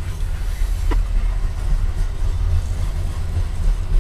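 Loaded Norfolk Southern coal hopper cars rolling past on the rails, a steady low rumble, with one short click about a second in.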